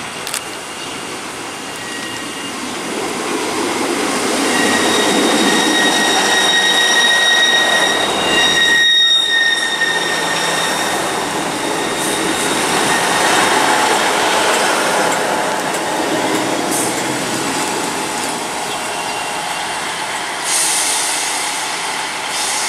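Class 158 diesel multiple unit running past close by, its rumble building as it approaches, with a high steady squeal for several seconds in the middle.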